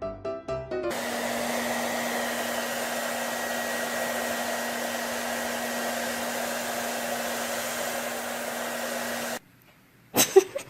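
A small electric motor blowing air, running steadily with a constant hum under the rush of air; it starts suddenly about a second in and cuts off abruptly near the end.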